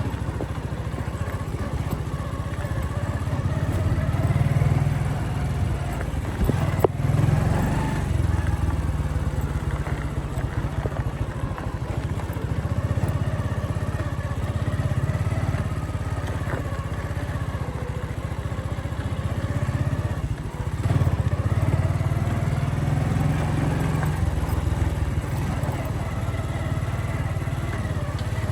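Motorcycle engine running on the move, its pitch rising and falling with the throttle. A single sharp click about seven seconds in.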